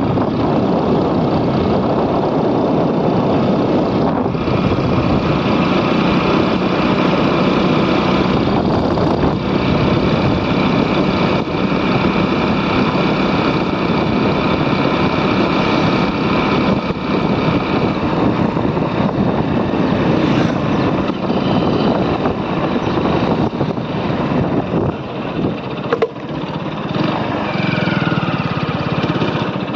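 Motorcycle engine running steadily while riding, a continuous dense noise that holds an even level throughout.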